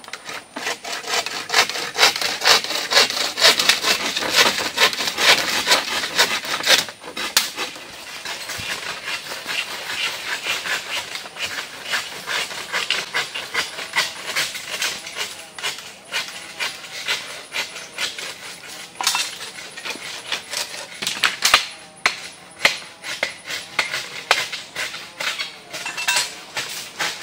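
Hand saw cutting wood with fast, repeated back-and-forth strokes, briefly pausing about seven seconds in before carrying on.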